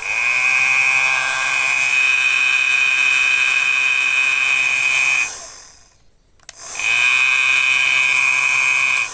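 Hair dryer running with a loud, shrill high whine over its blowing, a noise caused by hair wound around the fan. About five seconds in it is switched off and winds down to silence, then it is switched back on a second later and spins up to full whine again.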